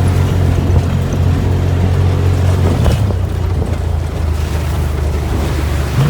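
Side-by-side UTV engine running at steady low revs, with a steady rushing noise over it.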